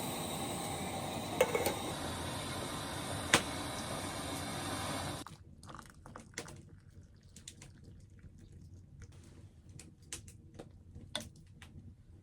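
Tea being made on a portable camping stove. For about five seconds there is a steady hiss of water heating, with two sharp clicks. It then drops suddenly to quieter scattered taps and small liquid sounds.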